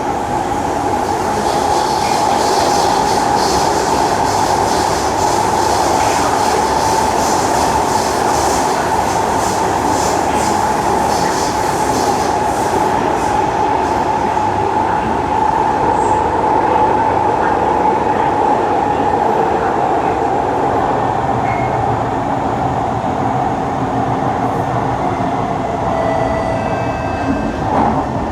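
Kawasaki C151 metro train running through an underground tunnel, heard from inside the car: a loud, steady rumble of wheels on rail with a constant hum. A few faint whining tones come in near the end.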